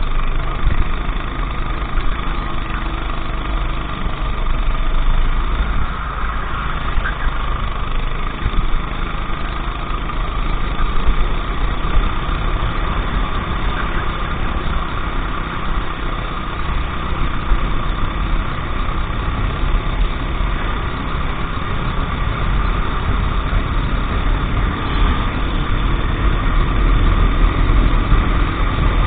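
Racing kart engine running steadily at speed, with a strong low rumble underneath.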